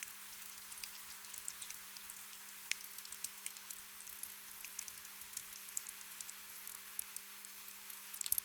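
Gentle rain: a steady hiss with many scattered single drops ticking sharply, over a faint steady low hum.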